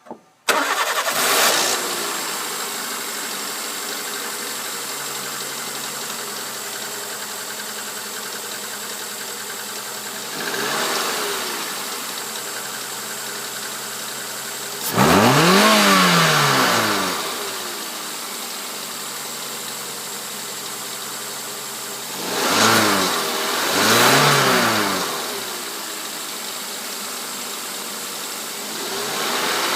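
Daihatsu YRV engine starting about half a second in, then settling to a steady idle. It is revved a little around ten seconds in, revved hard around fifteen seconds, blipped twice in quick succession a little past twenty seconds, and begins rising again near the end.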